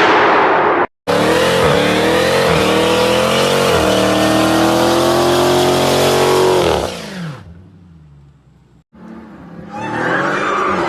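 Dodge Challenger V8 in edited clips. A loud rush of tyre and exhaust noise cuts off suddenly about a second in. Then the engine accelerates hard, its pitch climbing and dropping back several times through gear changes before fading away. Near the end a quieter clip of the engine running cuts in.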